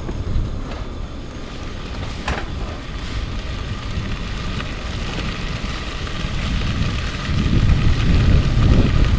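Wind buffeting the microphone: a low, uneven rumble under a steady hiss, growing stronger near the end. A single light knock about two seconds in.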